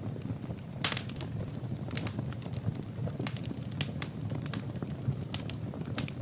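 Wood fire burning in a fireplace, crackling with many sharp irregular pops over a low steady rumble of the flames; one louder pop about a second in.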